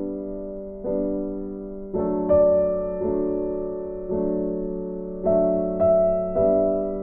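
Background music: a slow, gentle piano tune, one note or chord struck about every second and left to fade.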